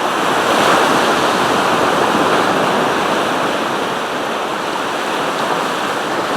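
Sea surf: waves breaking and washing on the shore, a steady rushing noise that swells slightly about a second in and eases a little later on.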